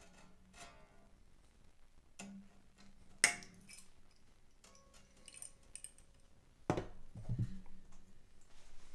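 Cutters snipping off a guitar string end about three seconds in: one sharp click, followed by faint ringing from the strings. A duller knock of handling on the guitar comes near seven seconds.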